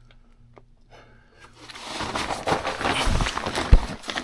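Scraping, rustling and crunching of a person crawling across a crawlspace floor, starting about one and a half seconds in, with a single loud thump near the end.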